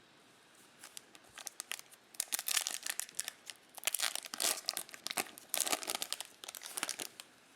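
Foil wrapper of a trading-card pack being torn open and crinkled, in three loud crackling spells.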